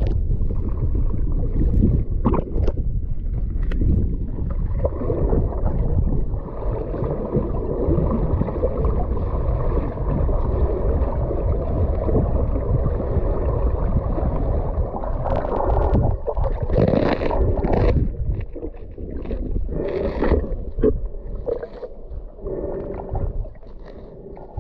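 Water rushing and gurgling past a boat, with a steady low rumble throughout. In the second half come short, sharper splashing surges, and the sound gets quieter toward the end.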